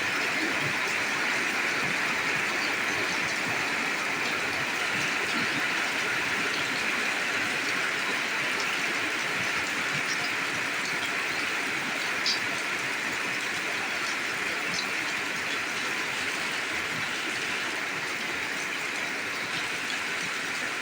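Heavy rain falling steadily, an even hiss, with one sharp tick about twelve seconds in.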